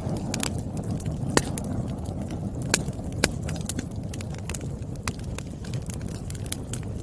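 Burning firewood crackling: irregular sharp pops and snaps over a steady low rumble of the flames, with a few louder pops.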